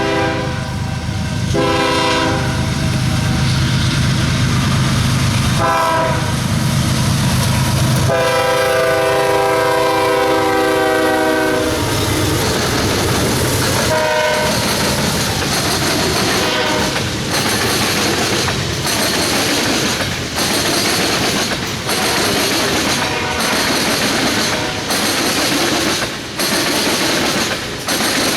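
Freight train's lead locomotive, a Canadian Pacific diesel, sounding its horn in several blasts, the longest starting about eight seconds in and lasting nearly four seconds, over the low rumble of the diesel engines. After that the loaded oil tank cars roll by with a steady clickety-clack of wheels over rail joints.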